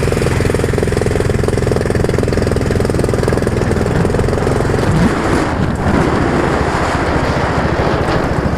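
An engine running loudly with a steady, fast pulsing beat; its note shifts and becomes rougher about five seconds in.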